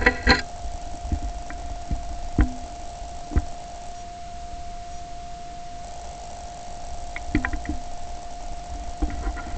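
A steady high-pitched whine on one pitch throughout, a fault in the recording, over a low rumble, with a handful of short knocks and thumps scattered through, the sharpest about two and a half seconds in.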